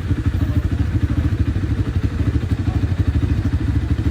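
Dirt bike engine running steadily with an even, rapid pulse and no revving.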